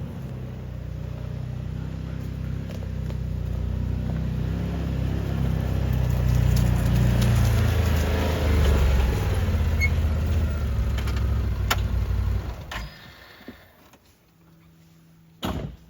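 A vehicle engine running as it is driven, growing louder toward the middle and then stopping about 13 seconds in. A single sharp knock near the end.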